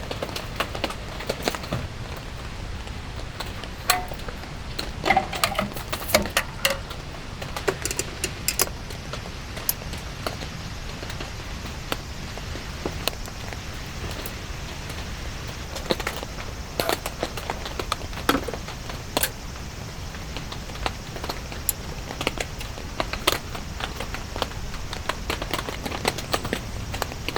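Steady rain hissing, with irregular sharp taps and clicks of drops, and a few small clinks about five to seven seconds in.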